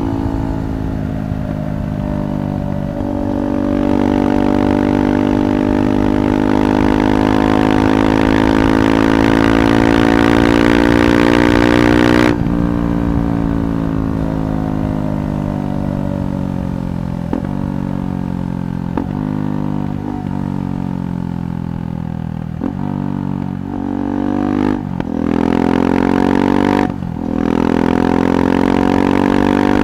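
KTM 390 Adventure's single-cylinder engine running through an aftermarket Red Rooster performance exhaust while riding. The engine note rises steadily for about twelve seconds and drops abruptly when the throttle closes, then dips briefly several times before pulling again near the end.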